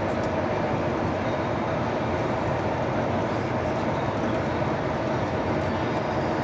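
Steady cabin drone of an Airbus A220-300 airliner, engine and airflow noise with a steady hum running through it, even and unbroken.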